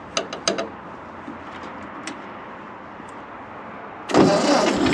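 A few sharp clicks, then about four seconds in a tractor engine starts suddenly and settles into a steady run.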